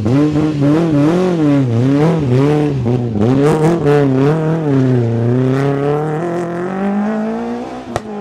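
Rally car engine driven hard, its revs rising and falling about twice a second, then dropping and climbing steadily again. A few sharp cracks are heard through the middle, and a single sharp crack comes just before the end.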